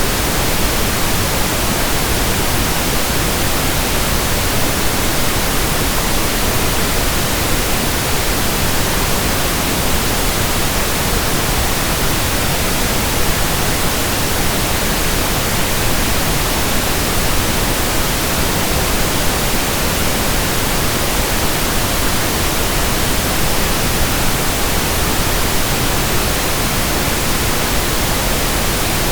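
Steady pink noise: an even, unbroken hiss spread across all pitches, holding the same level throughout.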